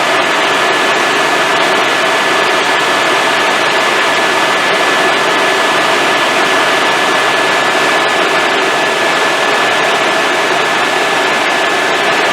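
Helicopter in flight, heard from inside the cabin: a loud, steady rush of engine and rotor noise with a constant high whine.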